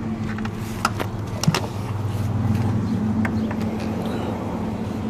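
Mitsubishi 3000GT's V6 idling through a straight-pipe exhaust with a Flowmaster Super 40 muffler and no catalytic converter: a steady low drone, with a few short clicks about one and one and a half seconds in.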